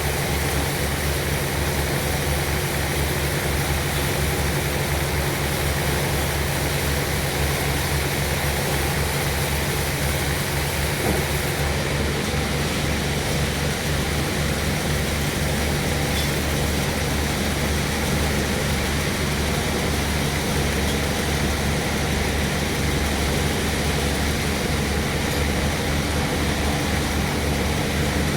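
Sawmill machinery running steadily: a low engine drone with a fast, even throb under a wide wash of mechanical noise.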